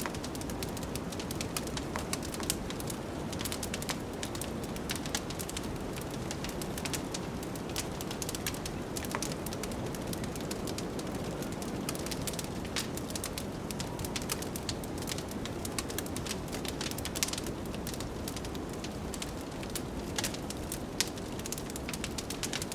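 Wood fire crackling with many small, irregular pops, over a steady low rush of wind.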